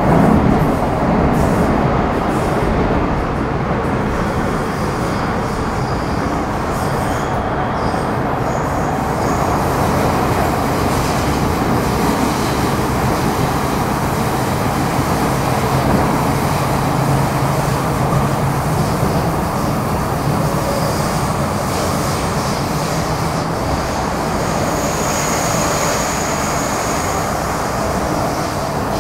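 Interior running noise of an MTR Metro Cammell M-Train (CT-Stock car C243) with GEC GTO chopper traction, travelling at speed: a steady rumble of wheels and motors. A faint high-pitched whine comes in for a couple of seconds near the end.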